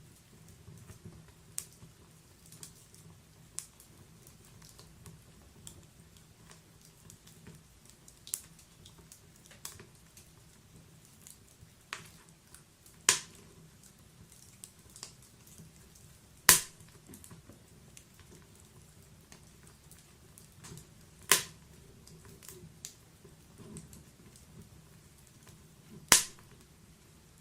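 Wood fire burning in a fireplace: a steady low rush of flame with irregular small crackles and four sharp, loud pops spaced a few seconds apart.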